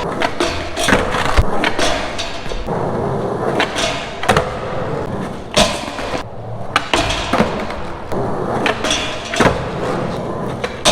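Skateboard rolling on concrete, its wheels giving a steady rumble, with many sharp clacks from the board's tail popping and the deck landing.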